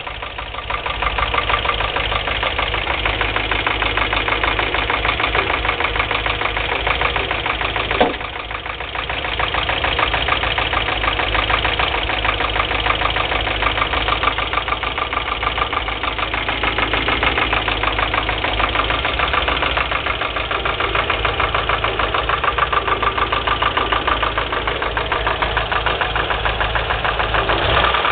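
UMZ-4215 four-cylinder petrol engine idling with a steady, fast, even knock. The owner cannot tell whether it is a worn camshaft and lifters or a piston pin; it does not stop when each spark plug lead is pulled in turn. A single sharp click about eight seconds in, then the engine briefly runs quieter.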